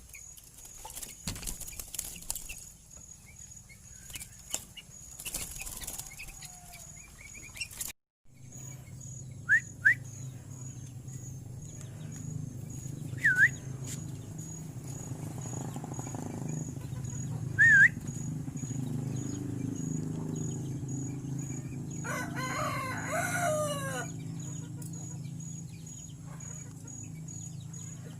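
A kutilang (sooty-headed bulbul) giving a few short, loud, sharp whistled calls spaced several seconds apart. Near the end a rooster crows once for about two seconds, over a steady low hum.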